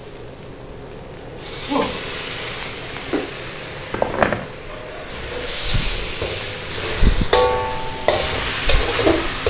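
Spice paste sizzling as it fries in a steel wok, stirred with a metal spatula that knocks and scrapes against the pan. The sizzle starts about a second and a half in and keeps on steadily.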